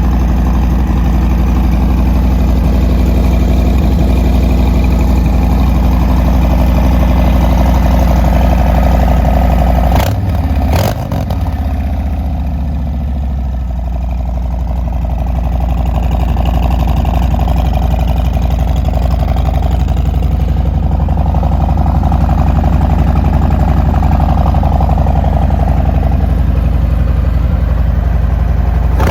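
Harley-Davidson Breakout 114's Milwaukee-Eight 114 V-twin idling steadily with a deep, even rumble. Two sharp knocks come about ten seconds in, and after them the rumble dips briefly and its low tone shifts.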